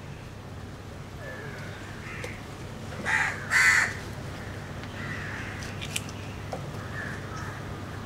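A bird calling: two loud, harsh calls close together about three seconds in, with fainter calls before and after.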